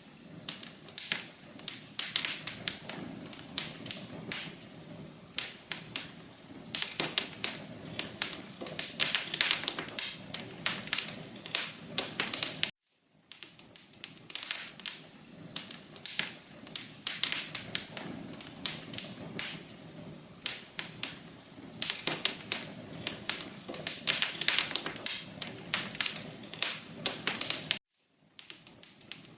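Wood fire crackling in a fireplace: dense, irregular pops and snaps over a low hiss. It cuts out to silence briefly twice, about thirteen seconds in and near the end.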